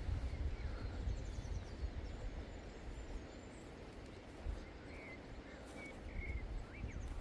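Outdoor field ambience: a low rumble on the microphone with a few short bird chirps in the second half.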